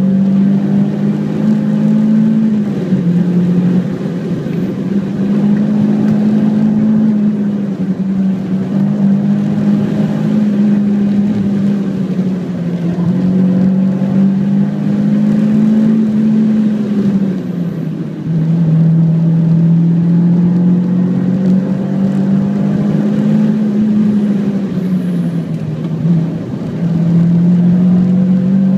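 Renault Clio 172 Cup's 2.0-litre four-cylinder engine heard from inside the cabin under hard driving on track. The engine note climbs steadily and then drops sharply several times as the driver shifts gear and lifts for corners, over a constant road and tyre noise.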